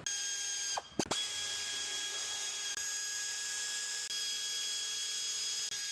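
High-speed power tool running with a steady high whine. It stops briefly just under a second in, with a click, then starts again and runs on.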